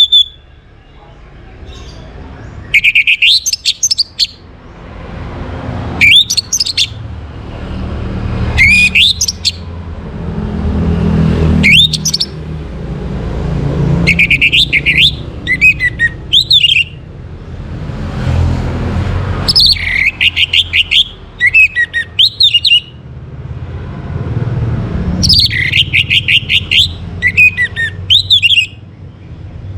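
Orange-headed thrush singing: loud phrases of rapid, varied whistled notes and trills, each a second or two long, repeated every few seconds with short pauses between them, over a steady low rumble.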